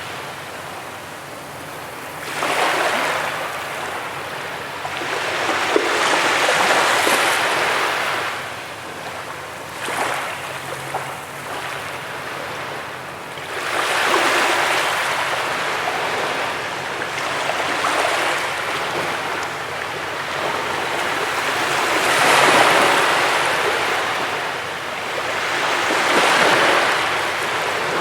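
Ocean surf breaking on a beach: a steady wash of water that swells and falls back every few seconds as each wave comes in.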